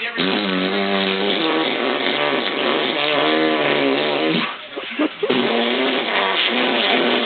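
Long, drawn-out playful howling with a wavering pitch, in two long stretches broken by a short gap about two-thirds of the way through.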